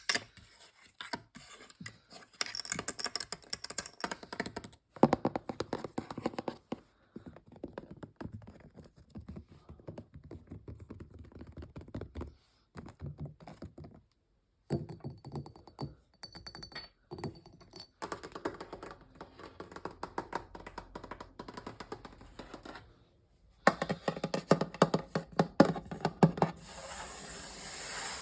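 Fast ASMR tapping on objects around a bedroom: quick, dense runs of clicks and taps in short stretches separated by brief pauses, one stretch with a faint high ringing. Near the end a steadier hissing texture takes over.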